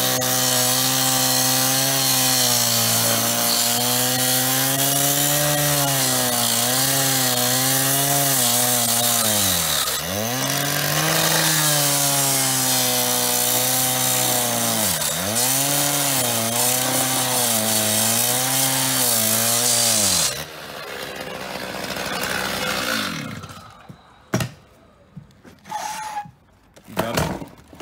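Power saw cutting into a metal payphone, its motor sagging in pitch several times under load and recovering. It shuts off about 20 seconds in and winds down, followed by a few sharp metallic knocks.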